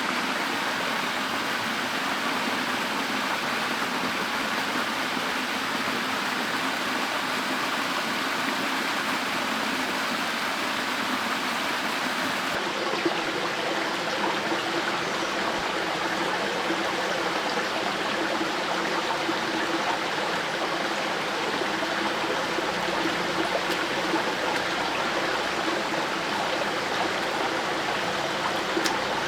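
Stream water running steadily. About halfway through, the sound changes abruptly to a different stretch of flowing water.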